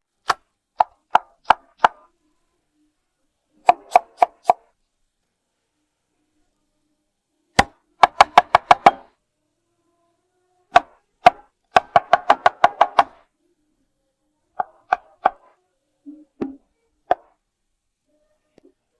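Knife chopping on a cutting board in separate bursts of sharp knocks, some slow single strokes and some quick runs of about six or seven a second, with silence between bursts.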